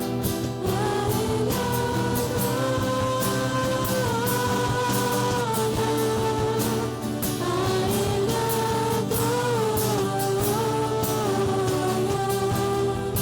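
Live church worship band playing a song: a sung melody in long held notes over guitar, bass and a drum kit with cymbals.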